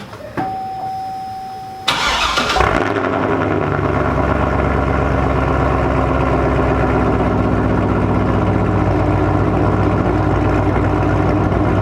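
A single fading tone, then a car engine starts with a sudden loud catch about two seconds in and settles into a steady idle.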